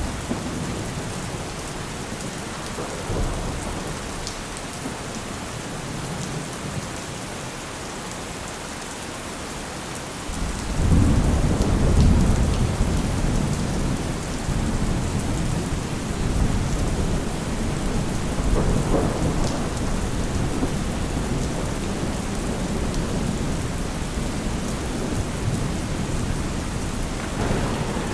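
Steady heavy rain with thunder. A long roll of thunder builds about ten seconds in and rumbles on, with lighter rolls later and another near the end.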